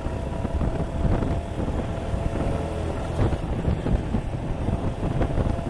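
Suzuki Gixxer 155's single-cylinder engine running steadily at riding speed, under heavy wind buffeting on the GoPro microphone.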